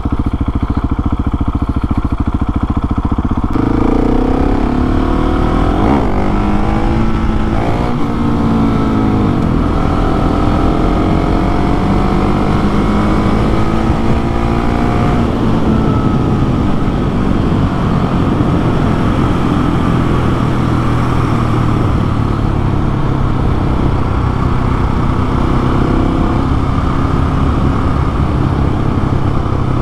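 Husqvarna 701SM supermoto's single-cylinder engine running under way. It runs low at first, then from about four seconds in revs up and drops back several times as it pulls through the gears, holds a long climbing note until about fifteen seconds in, then settles to a steadier run.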